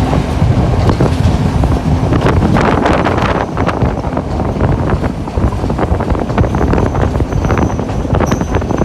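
Passenger train running along the track, heard from on board: the steady rumble and rattle of the carriage with sharp clicks of wheels over the rails, and wind on the microphone. A thin high wheel squeal comes in near the end.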